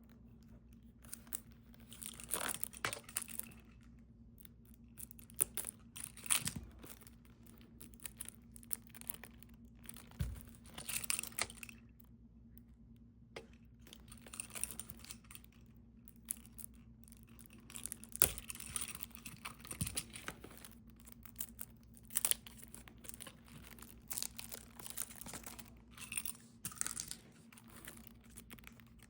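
Plastic wrapping on a CD album crinkling and tearing in irregular bursts as it is unwrapped and handled, with a few sharp clicks.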